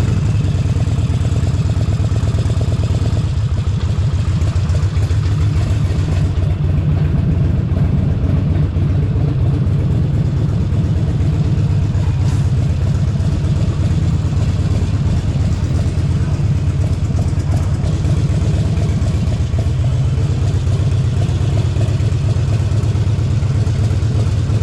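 Harley-Davidson Forty-Eight Sportster 1200's air-cooled V-twin engine running steadily, its low, rapid firing pulses heard close up from the saddle.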